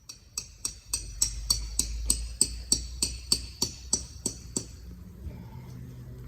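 A hammer striking a metal tent stake in a rapid run, about three or four ringing metallic strikes a second, stopping about four and a half seconds in.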